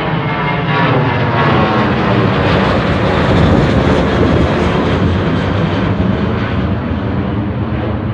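Airliner passing close by on the runway or low overhead, its engine noise swelling to a peak about halfway through and then easing off.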